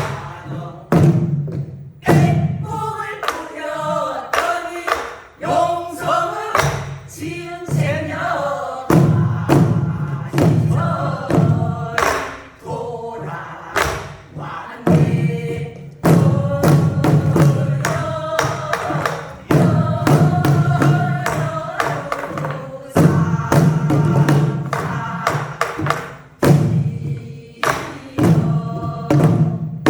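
A group of singers singing a Korean traditional song together while beating buk barrel drums, sharp drum strokes landing between and under the sung lines.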